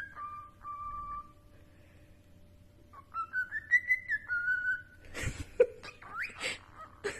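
Cockatiel whistling a tune in clear, stepped notes, then a few harsh, scratchy calls and a quick rising whistle near the end.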